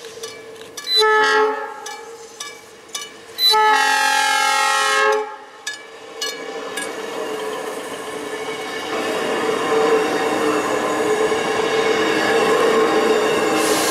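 South Shore Line electric commuter train sounding its horn, a short blast and then a longer one of about a second and a half. The train then passes close by, its wheel and rail noise growing steadily louder.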